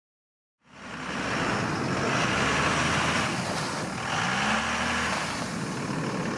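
Cummins six-cylinder turbo diesel engine of an aircraft tow tractor running steadily, a low steady drone under a broad mechanical noise, coming in a little under a second in.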